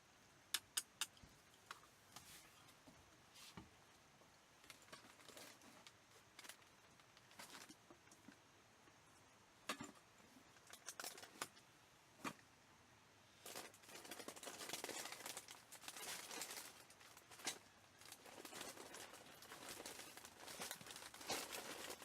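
Quiet handling sounds: three quick sharp clicks right at the start and scattered small knocks, then a longer stretch of crinkling and rustling, as of wrapping or packaging, from about two thirds of the way in.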